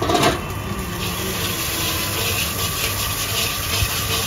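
Eggs frying in hot oil in a wok: steady sizzling and crackling, with a brief louder knock or scrape right at the start.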